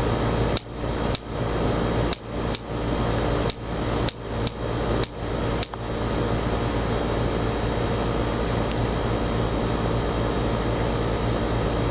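Electric fly-swatter racquets snapping as flies hit the charged grid: about nine sharp cracks in the first six seconds, then none, over a steady hum.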